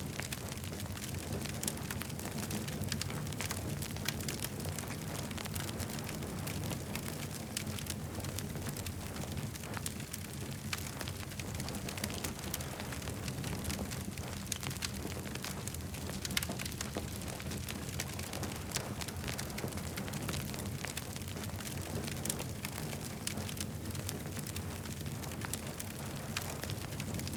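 Campfire burning with a continuous irregular crackle of sharp pops and snaps over a steady low rumble.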